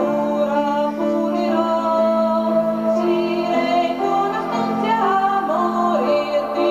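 Progressive rock band playing live, heard on an amateur concert recording: a sustained low note holds underneath while a high melody line moves in long held and gliding notes above it.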